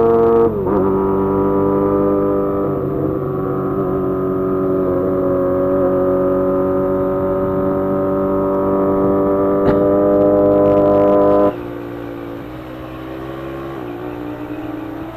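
Motorcycle engine running at steady high revs, its note dipping slightly about half a second in. About eleven seconds in it drops suddenly, quieter and lower, as the throttle is eased off.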